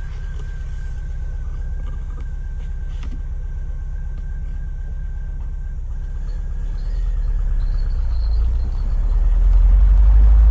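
1991 Volkswagen Vanagon Syncro's engine running under way, a steady low rumble that gets louder from about six seconds in as it pulls harder.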